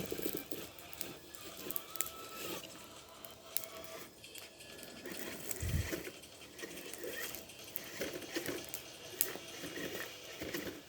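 Tamiya TXT-2 electric RC monster truck crawling over rough ground: scattered crunches and clicks of its tyres on dirt and rocks, with a faint steady motor whine in the first few seconds and a low thump a little past the middle.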